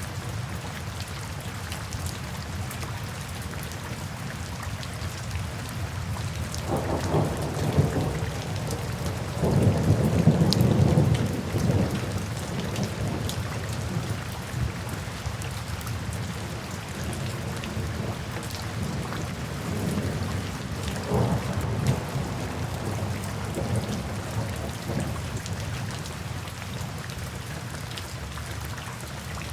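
Steady rain with rolling thunder. One long rumble builds about a quarter of the way in and is loudest around a third of the way through; a second, weaker rumble comes past the middle.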